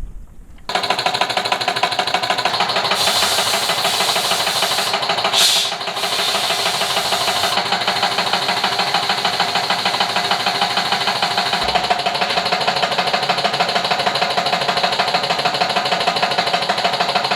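MT Dnepr 10-36 motorcycle engine running at a steady speed, a rapid even pulsing. It starts abruptly under a second in.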